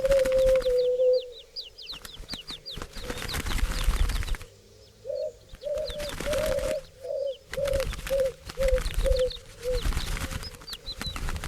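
Doves cooing with low notes: one drawn-out coo at the start, then a run of about eight short coos from about five seconds in. Wings flap and clatter rapidly throughout, and a small bird gives thin, high, falling chirps in the first few seconds.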